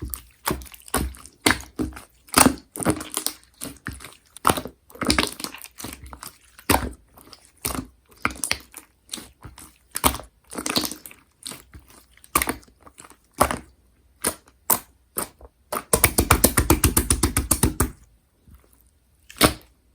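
Slime being squeezed and pressed by hand, giving a string of wet clicks and pops, with a quick dense run of clicks for about two seconds near the end.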